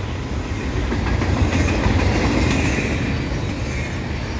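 Canadian Pacific double-stack container well cars rolling past close by: a steady, heavy rumble of steel wheels on rail, with a few clicks from the wheels over the rail joints.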